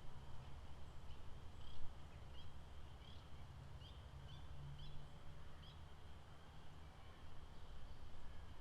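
Faint outdoor lakeside ambience: a steady high-pitched animal chorus over a low rumble. From about one to six seconds in, a small animal gives a run of about nine short chirps, roughly two a second.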